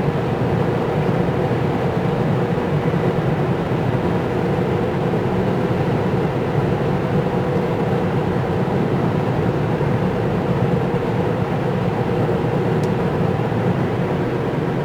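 Steady tyre and wind noise inside a Tesla Model 3's cabin at highway speed, about 70 mph, on wet pavement.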